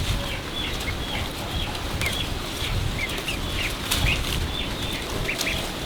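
Small birds chirping: many short, high, falling chirps, a few a second, over a low rumble.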